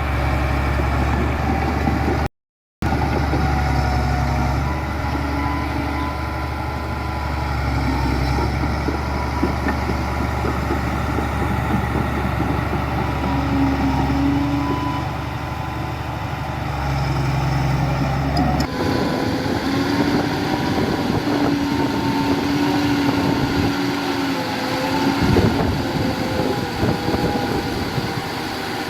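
Diesel engines of heavy earthmoving machinery running steadily, with a deep low rumble. The sound drops out completely for a moment about two and a half seconds in, and near nineteen seconds it switches abruptly to a different machine's engine note.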